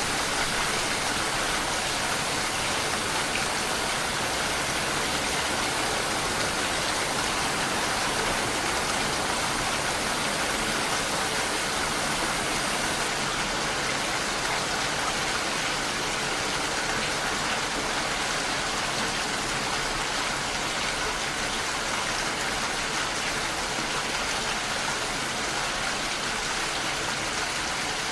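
Steady rain falling, an even hiss with no breaks; the very highest treble thins slightly about halfway through.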